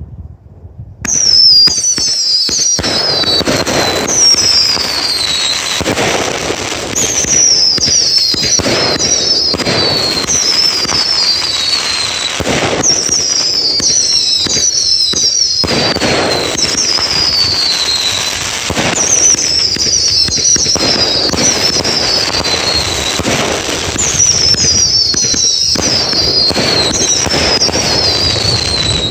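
Fireworks going off without a break, starting about a second in: a dense run of bangs and crackling, with clusters of high whistles that each fall in pitch over about a second.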